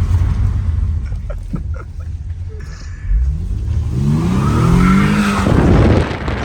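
A car engine rumbles low, then about three seconds in revs up hard and rising in pitch, with tyres squealing as the car is driven hard. The sound cuts off just at the end.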